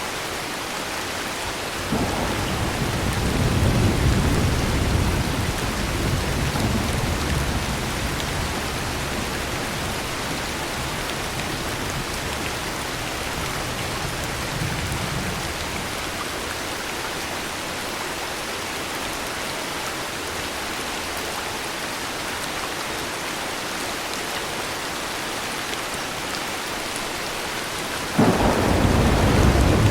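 Steady heavy rain with thunder. A deep roll of thunder starts suddenly about two seconds in and fades away over several seconds, and another loud roll breaks in near the end.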